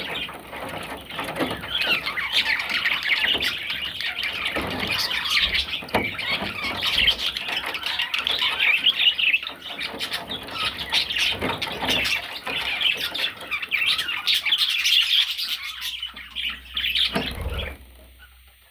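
A parrot chattering continuously, a rapid stream of warbles, chirps and squawks, until it falls quiet near the end.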